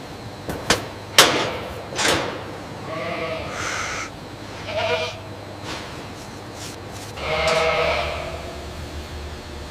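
Goats bleating three times, the last call the longest. A few sharp knocks or clatters come in the first two seconds.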